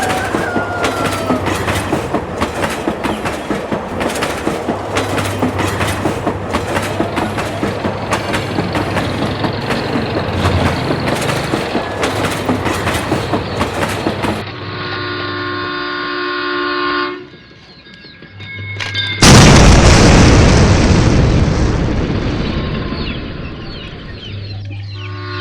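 Railking toy train running on its track with a steady rhythmic clatter and motor hum. Its multi-note electronic horn sounds for a few seconds after that. About 19 seconds in comes a sudden loud crash that fades away over several seconds, and the horn sounds again near the end.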